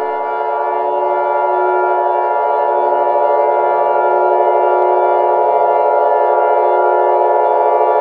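Loud, steady electronic alert tone of several pitches held together as one chord, with no rise or fall: the attention signal of an Emergency Alert System broadcast.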